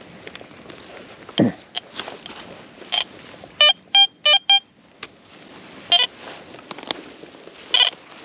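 Garrett Vortex VX9 metal detector giving short target-tone beeps over a buried metal target: four quick beeps about three and a half seconds in, then single beeps near six and near eight seconds. A thump comes about a second and a half in.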